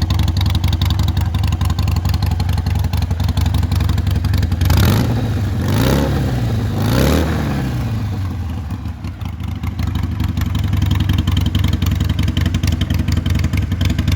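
Harley-Davidson XL 883 Iron's air-cooled V-twin idling through Crusher aftermarket exhausts, blipped three times about a second apart near the middle, then settling back to idle.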